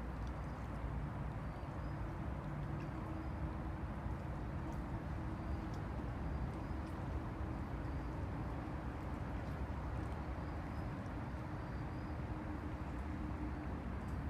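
Han River water lapping against the bank under a steady low hum of distant city traffic, with a few faint short high chirps scattered through.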